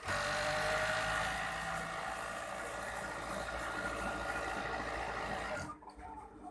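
Overdeck (coverstitch) sewing machine running at speed, starting abruptly and stopping suddenly after about five and a half seconds.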